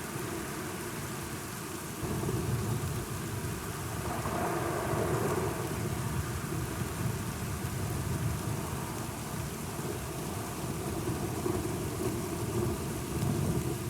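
Steady rain with low rolling thunder, the rumble growing louder about two seconds in and swelling again a few seconds later.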